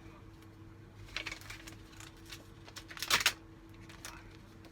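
Photo cards and paper packaging being handled and slid back into place: light clicks and rustles, with a louder cluster about three seconds in, over a faint steady hum.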